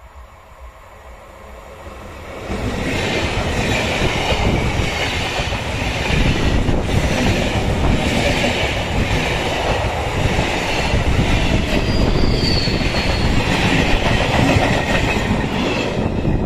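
Electric multiple unit (EMU) local train approaching and passing close by: a distant rumble grows and, about two and a half seconds in, turns into loud, steady wheel-and-rail noise with wheels clattering over rail joints. A brief high wheel squeal comes through about two thirds of the way in.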